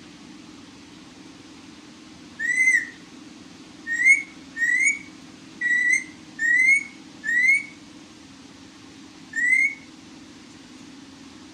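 Pet parrot whistling: seven short rising whistles, each about half a second long, with pauses between them and a longer gap before the last.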